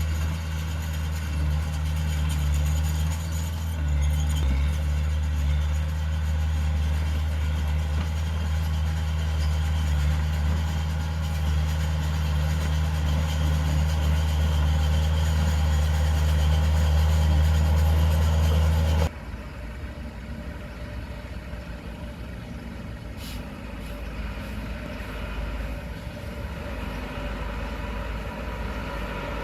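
Heavy diesel machinery engine running steadily with a deep, even hum. About two-thirds of the way through, the loud hum cuts off suddenly, leaving quieter, more distant engine noise.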